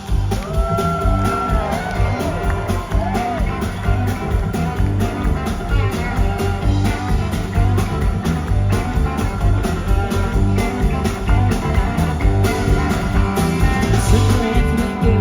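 Live country-rock band playing: electric lead guitar with pitch-bending lines over bass and a steady drum beat.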